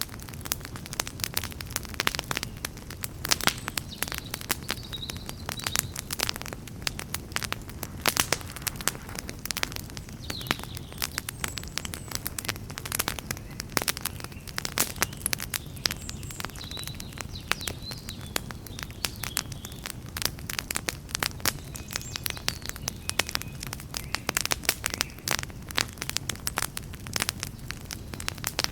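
Wood campfire crackling, with dense irregular sharp pops and snaps over a low steady noise of burning.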